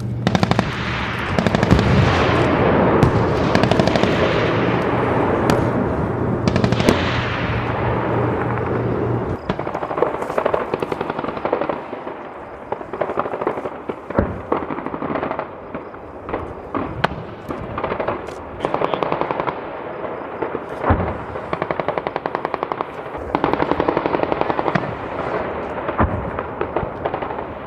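Live-fire machine-gun bursts, rapid evenly spaced shots, with a few heavier single reports among them. Over the first nine seconds or so the firing sits under a steady low drone and a loud rushing noise that twice falls in pitch, then the drone drops away and the bursts come in short strings.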